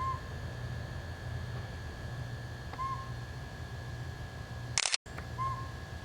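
Northern pygmy owl giving single short hoots, three in all, about two and a half seconds apart. A brief burst of noise with a split-second dropout comes just before the third hoot.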